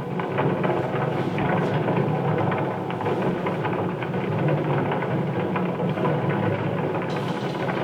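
Dense, steady electronic noise texture from a live sound-art performance: a low rumbling drone full of fine crackles, with a brighter hiss joining near the end.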